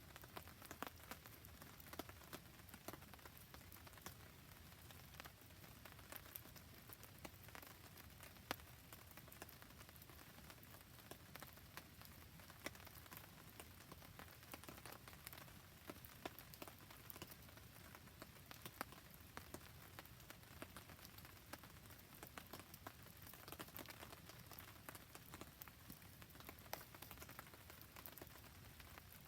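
Steady rain falling with a campfire crackling: an even hiss dotted with frequent short, sharp pops and ticks.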